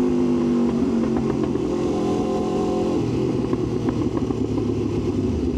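Aprilia RSV4's V4 engine running under way. Its note eases down a little in the first second and then holds steady at a lower pitch.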